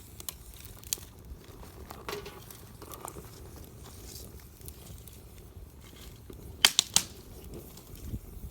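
Wood campfire crackling, with scattered small pops and snaps and three sharp, loud pops in quick succession about two-thirds of the way through.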